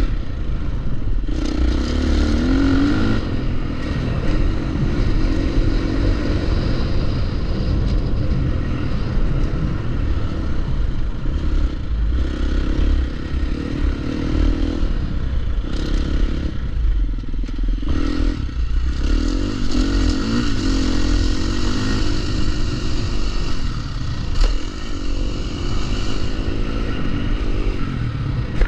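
Dirt bike engine revving up and down while riding a trail, its pitch rising and falling with the throttle and easing off briefly a few times around the middle, over a heavy low rumble.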